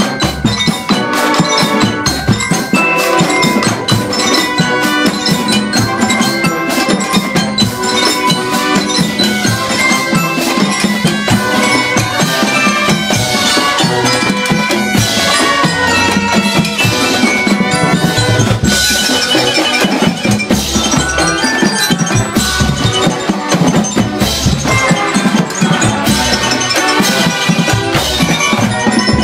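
Drum corps percussion section playing a Latin-style piece: drums keeping a busy rhythm under pitched mallet percussion carrying the melody.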